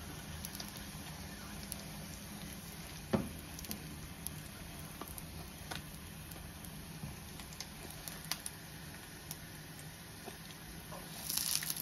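Tortilla wraps frying in oil in a nonstick pan: a steady soft sizzle with small scattered crackles. A sharper knock comes about three seconds in, and the sizzle grows louder near the end as a wrap is moved in the pan with the spatula.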